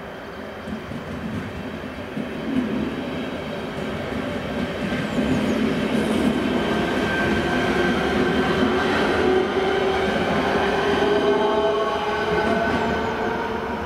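A passing passenger train grows louder to a peak past the middle and eases off near the end, with rolling wheel noise and a few steady whining tones over it.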